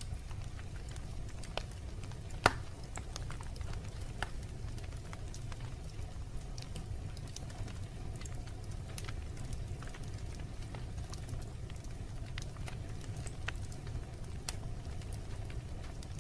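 Wood fire crackling in a fireplace: scattered sharp pops and snaps over a steady low rumble of burning, with one louder pop about two and a half seconds in.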